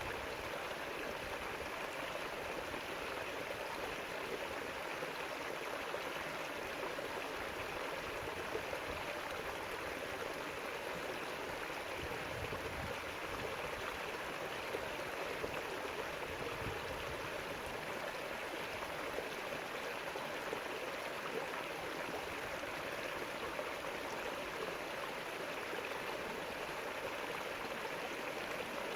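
River water flowing steadily over rocks: a continuous, even rushing with gurgling.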